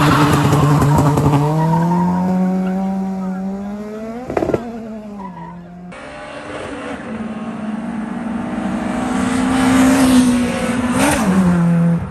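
Race car engines revving hard under acceleration in a street drag race, the engine note climbing and holding high. After a cut, another engine builds to a loud peak. There are two sharp cracks, about four and a half seconds in and again near the end.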